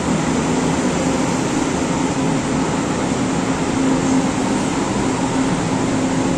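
S-Bahn electric multiple unit running along the platform at close range: a steady rumble of the moving train with a low, even hum.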